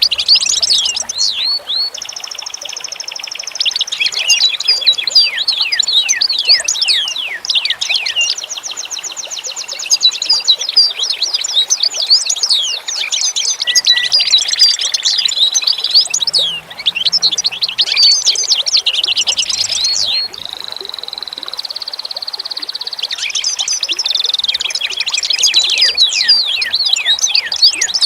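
A chorus of small songbirds chirping and twittering together, many quick sweeping notes overlapping, with rapid buzzy trills now and then.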